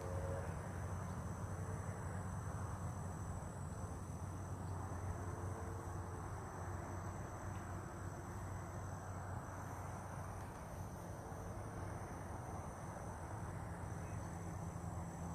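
Steady chorus of insects, likely crickets, holding several high pitches without a break, over a low outdoor rumble.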